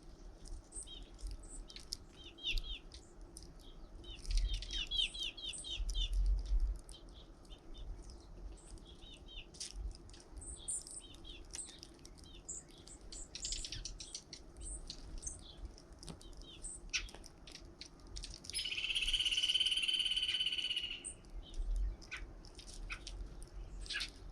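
Small birds chirping and calling at a bird feeder, with quick runs of repeated chirps. Near the end comes one louder, harsh call lasting about two seconds.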